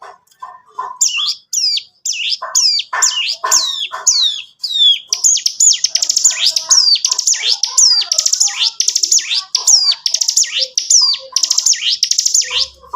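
Ciblek gunung (cigun) singing hard in a rapid 'ngebren' run: repeated sharp, high, downward-sweeping notes, spaced at first, then packed into a fast continuous run from about five seconds in.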